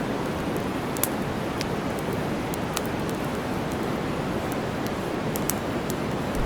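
Steady white-noise hiss with campfire crackling mixed in: wood fire popping and snapping in scattered sharp clicks, several of them close together near the end.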